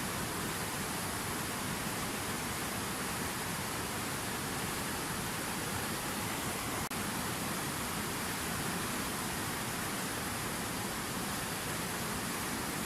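Fountain waterfall: water falling and splashing in a steady, even rush, with a brief dropout about halfway through.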